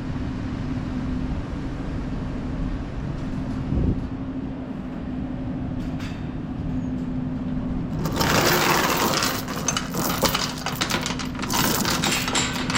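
Truck engine running with a steady low hum. About eight seconds in, a loud, dense rattling of metal starts: flatbed load chains being handled.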